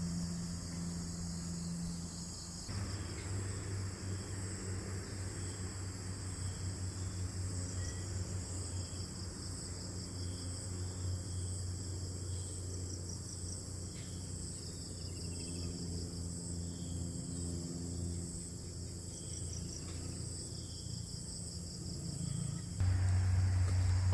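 Insects chirring steadily in high, finely pulsing trills over a low rumble, which grows louder near the end.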